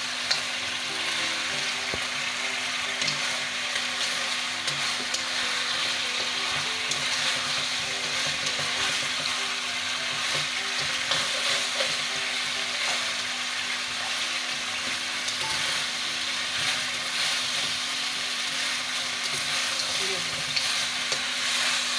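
Chicken wings frying in a sticky soy, ketchup and honey sauce in a wok, sizzling steadily while a spatula stirs and tosses them, with scattered light scrapes and clicks. The sauce is cooking down and coating the wings.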